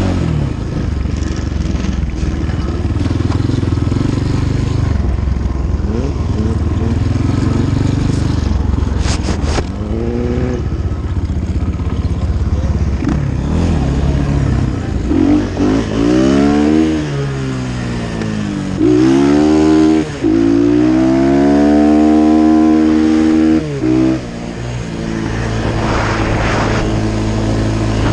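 Dirt bike engine under way, pulling hard over the second half: its pitch climbs and drops sharply several times as it shifts up through the gears, with wind rushing past.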